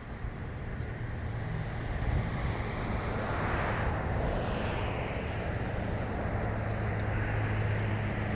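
A motor vehicle running: a steady low engine hum under a rushing noise that swells about three to four seconds in.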